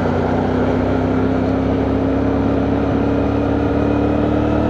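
CFMoto 450NK motorcycle engine running under way, its note rising slowly as the bike gathers speed, with wind noise.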